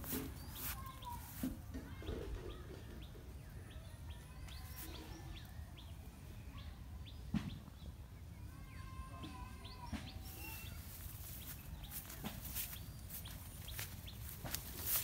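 Birds chirping and calling, with scattered sharp clicks and knocks; a single knock about seven seconds in is the loudest sound.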